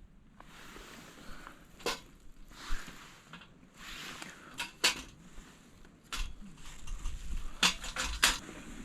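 Metal parts of a folding steel fire pit clinking and clattering as they are handled, with irregular sharp clinks and soft rustling in between, and a quick cluster of clinks near the end.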